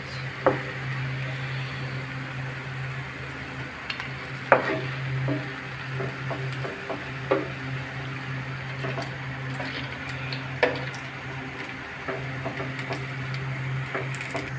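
Goat-brain pakoras sizzling in hot oil in a frying pan over a steady low hum. About four sharp utensil knocks against the pan are spread through it.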